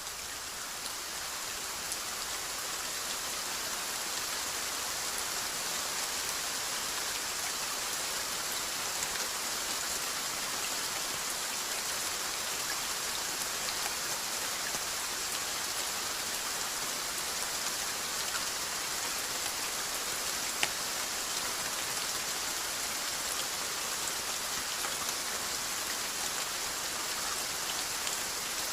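Steady rainfall hissing evenly, swelling slightly over the first few seconds, with a single sharp drop tap about two-thirds of the way through.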